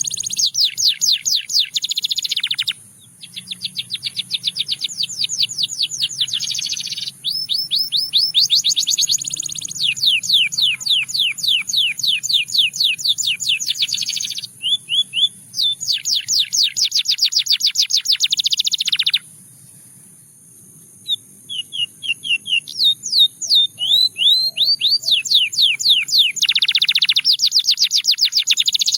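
Russian singing canary singing long rolling trills of rapidly repeated high notes, one run after another, with a short break about three seconds in and a longer one around twenty seconds in.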